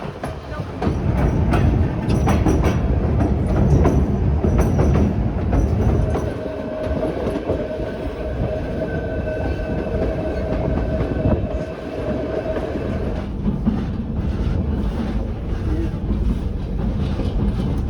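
White Pass & Yukon Route narrow-gauge train running on the rails, rumbling and clattering over the track joints. For several seconds in the middle a steady high squeal from the wheels rides over the rumble.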